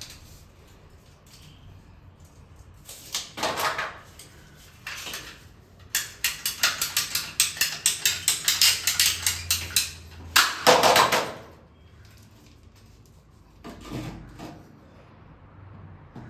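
CPVC pipe being cut to length: a run of rapid, evenly spaced cutting strokes, about five a second for some four seconds. A few shorter scrapes come before it and a louder one after.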